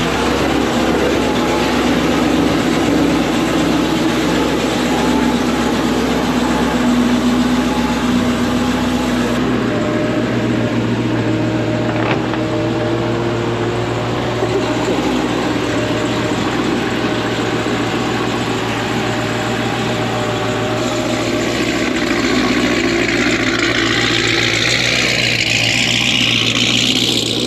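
A car engine running steadily, then in the last several seconds a whine that climbs in pitch as the car accelerates.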